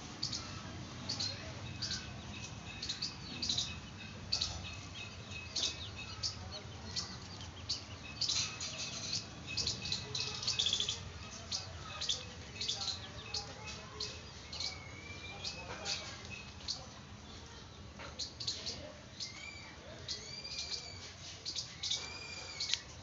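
Birds chirping: many quick, high chirps throughout, joined about two-thirds of the way in by repeated short calls that rise and fall in pitch.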